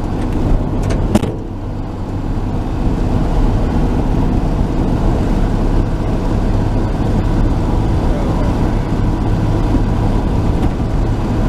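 Cab interior of a 1949 Chevrolet truck under way: a steady low engine and road hum. About a second in, a few sharp clicks and a knock are heard.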